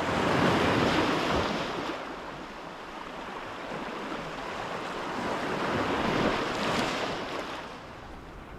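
Sea waves washing in against the shore, in two surges: one just after the start and a second around six seconds in, each fading back.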